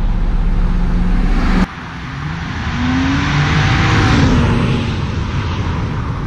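Nissan Maxima's V6 running steadily at a standstill, heard from behind by the exhaust, until an abrupt cut. Then the car drives toward and past: engine and tyre noise swell to a peak about four seconds in, the engine note rising and then dropping as it goes by.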